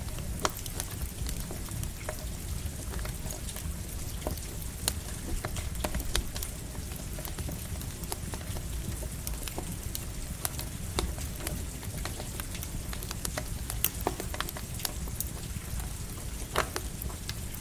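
Campfire crackling and popping, sharp snaps at irregular moments with a few louder pops near the end, over a steady hiss of light rain and a low rumble.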